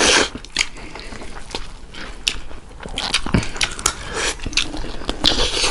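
People biting and chewing meat curry and rice eaten by hand: a string of wet mouth clicks and smacks, with a brief low hum about three seconds in.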